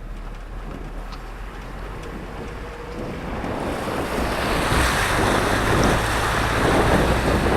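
A vehicle engine's low steady rumble under a rushing noise that grows louder from about three seconds in.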